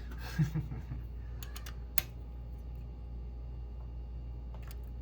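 A few light metallic clicks and taps of hand tools and a feeler gauge against the rocker arms and adjusting screws during a valve clearance adjustment, with a brighter click about two seconds in, over a steady low hum.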